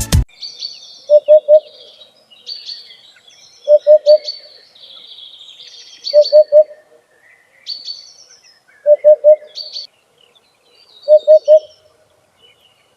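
Hoopoe calling: a low three-note hoot, repeated five times about every two and a half seconds. Other small birds chirp higher in the background.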